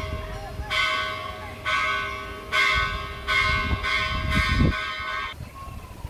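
A bell struck repeatedly, about five ringing strikes roughly a second apart, each fading before the next, stopping near the end. Low rumbling runs underneath.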